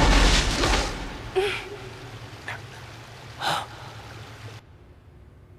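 A loud sound dies away over the first second, then two short breathy gasps come about two seconds apart.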